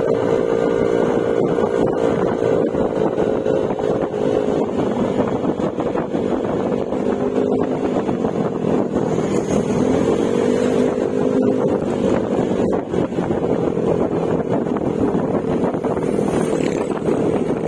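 Yamaha Mio Gravis scooter's single-cylinder engine running at a steady cruise through an aftermarket Akrapovic exhaust with silencer, its note wavering slightly. Wind noise is on the microphone.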